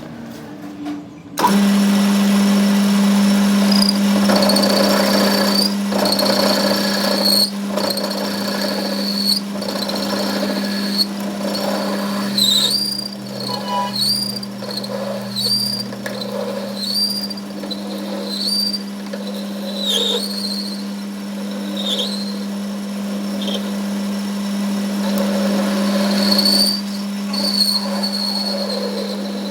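A workshop machine starts running about a second in and keeps up a steady low hum. Over it come short high squeals, repeating roughly once a second through the middle, like metal squealing under a tool.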